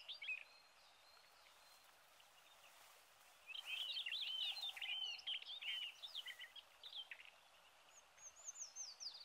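A songbird singing in quick runs of short high whistled notes that rise and fall: a brief phrase at the very start, a pause of about three seconds, then a longer run about three and a half seconds in, and thinner, higher notes near the end. Faint hiss throughout.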